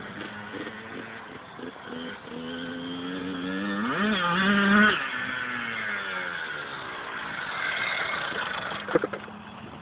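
A motorbike engine revving up, its pitch climbing to a peak about halfway through, then dropping steadily as the revs fall away. A short knock comes near the end.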